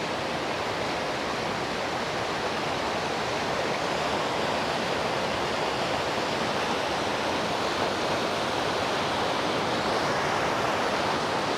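Fast-moving mountain creek rushing steadily, a constant loud wash of water.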